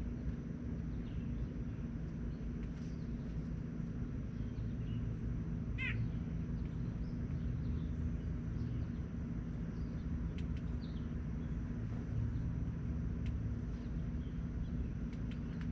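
Outdoor ambience: a steady low rumble with a single short wavering bird call about six seconds in, and a few faint chirps and ticks.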